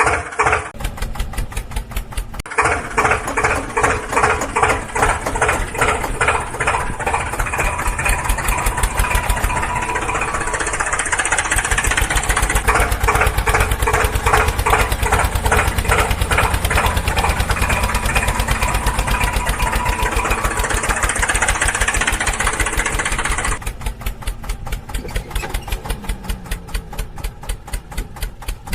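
Small engine of a homemade mini tractor running with a fast, even chugging pulse. It gets louder about a third of the way in and drops back suddenly near the end.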